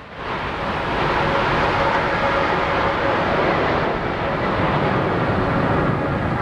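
Jet noise from a formation of Aermacchi MB-339 trainers, with Rolls-Royce Viper turbojets, passing in a low crossing. It is a steady rush of engine noise that builds up within the first half second.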